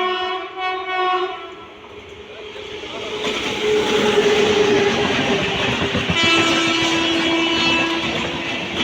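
A train horn sounding steadily, cutting off about a second in; then a passing train's rumble and wheel clatter builds up, and a horn sounds again about six seconds in and holds over the noise.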